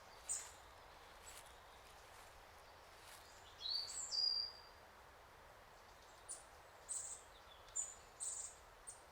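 Birds chirping and calling over a faint steady background hiss: a high sliding call a little under four seconds in, then a string of short, very high chirps near the end.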